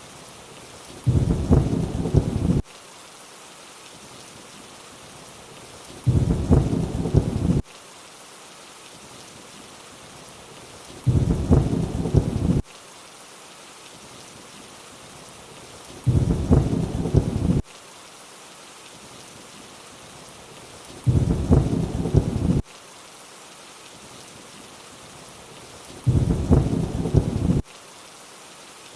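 Steady rain with a short low thunder rumble repeating every five seconds, six times, each about a second and a half long and cutting off abruptly, like a looped sample.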